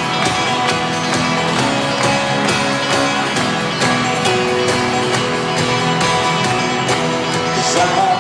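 Live band playing an instrumental passage of a folk-rock song, led by fast strummed acoustic guitar with other instruments over a steady rhythm, heard through a crowd recording in an arena.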